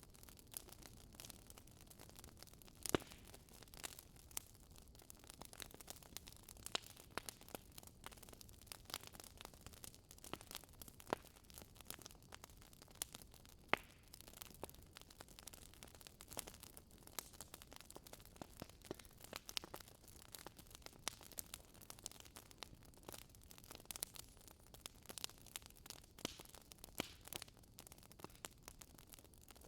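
Swedish fire log burning, the wood crackling with irregular small snaps and a few louder pops over a faint steady hiss.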